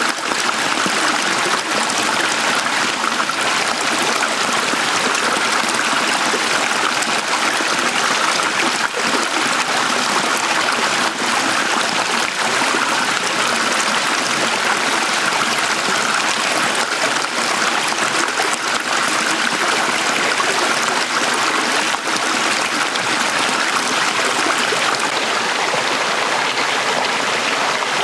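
Shallow stream flowing and trickling steadily.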